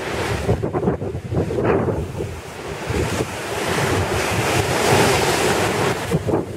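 Strong wind buffeting the microphone over waves breaking and washing on the Lake Champlain shore, driven by high wind and high water. The rush of wind and surf swells louder in the middle.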